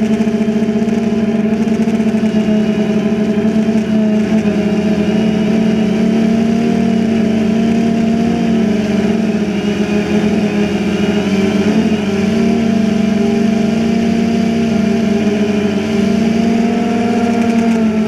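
DJI Phantom 2 quadcopter's motors and propellers running in flight, a loud steady hum whose pitch wavers slightly as the drone adjusts.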